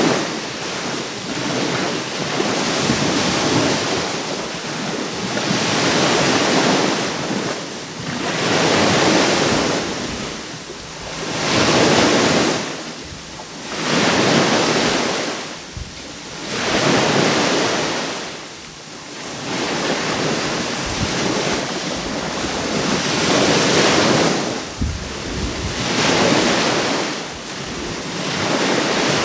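Small sea waves breaking on the shore in a steady cycle, swelling and falling every two to three seconds, with wind buffeting the microphone.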